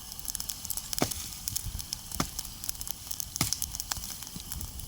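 Wood campfire crackling with a steady hiss and three sharp pops about a second apart.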